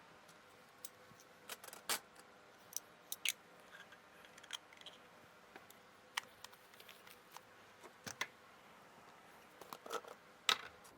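Scattered light clicks and taps of small hard objects, a dozen or so at irregular intervals, some in quick pairs, with the loudest near the end.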